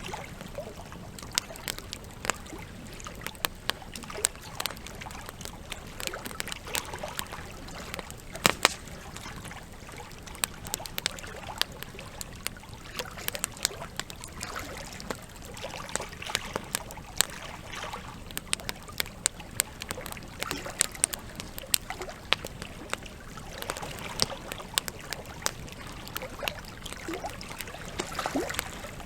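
Burning campfire logs crackling, with frequent sharp pops at irregular intervals, the loudest about eight and a half seconds in. Underneath is a steady background of trickling water.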